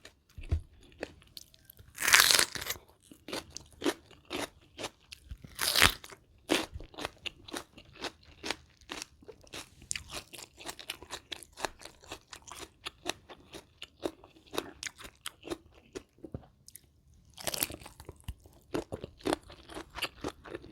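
A person chewing crunchy food close to the microphone: a steady run of small crunches and wet chewing clicks, broken by a few louder crunching bites about two, six and seventeen seconds in. The food is a spicy rice-noodle salad with shrimp and fresh vegetables.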